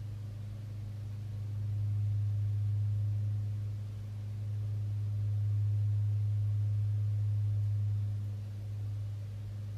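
A steady low hum, one deep tone with a fainter higher overtone, that swells louder twice and then settles back.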